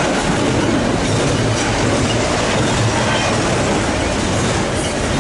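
Long freight train of double-stack container cars rolling past close by, a steady loud rumble and rattle of steel wheels on the rails.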